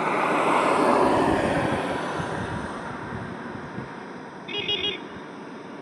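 A road vehicle passes close by, its tyre and engine noise swelling to a peak about a second in and then fading, over a steady background of highway traffic. Near the end a vehicle horn gives a short, pulsing toot.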